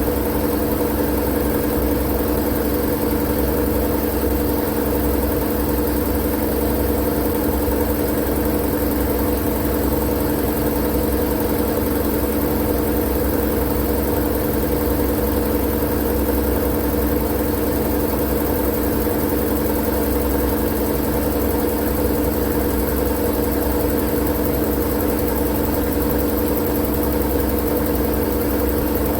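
Steady, unchanging machine drone used as white noise for sleep: a low rumble with a few constant hum tones and a hiss above them.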